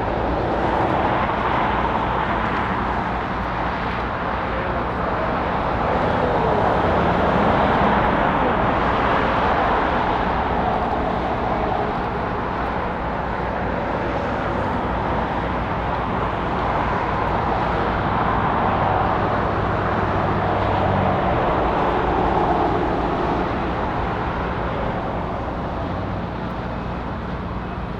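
Boeing 777-200ER jet engines on a departing airliner: a steady rushing jet noise that swells and eases several times.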